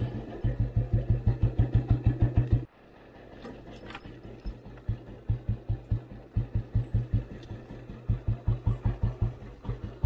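Old Royal Enfield Bullet 350's single-cylinder engine thumping at a slow idle, about five beats a second. About two and a half seconds in it drops sharply in level, and the beats go on softer and more uneven.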